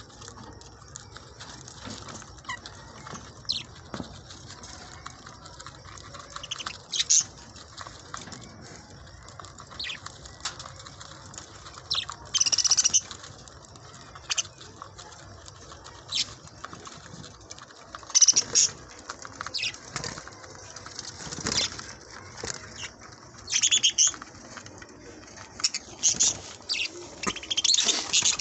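A flock of budgerigars chattering, with many short high chirps and squawks scattered throughout, louder clusters now and then, and occasional wing flutters.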